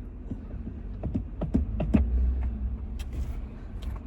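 Truck engine and low rumble heard from inside the cab as it pulls forward slowly, swelling about two seconds in, with a few light clicks and knocks.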